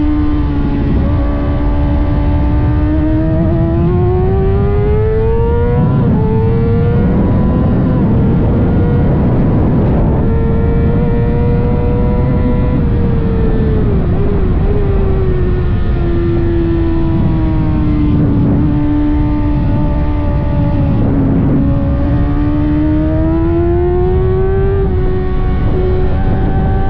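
Kawasaki ZX-6R sport bike's inline-four engine running hard at racing revs, its pitch sweeping up and down over several seconds as it accelerates and slows through the corners. A steady rushing noise runs underneath.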